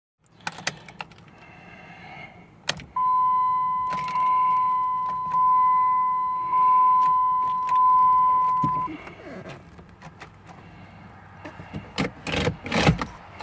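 A 2003 Jeep Liberty's dashboard warning chime dings about five times, a little over a second apart, with sharp clicks of the key and ignition and keys jangling before and after. No engine cranking or running is heard: the Jeep does not start.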